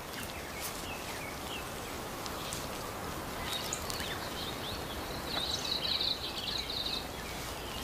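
Spring forest ambience: a steady background hiss with a few short high chirps, then a high trill lasting nearly two seconds about five seconds in.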